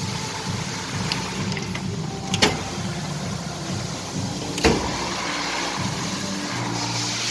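Car engine running steadily, with two sharp clicks about two seconds apart.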